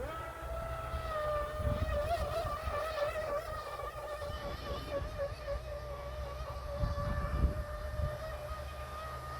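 A radio-controlled Traxxas boat's battery-powered electric motor whining as the boat runs on the water. The motor spins up sharply at the start, then holds a steady high pitch that wavers slightly. Low rumbles swell twice underneath it.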